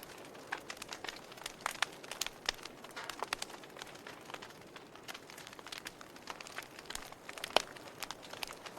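Wood fire burning in a fireplace: irregular sharp crackles and pops over a soft hiss, with one louder pop near the end.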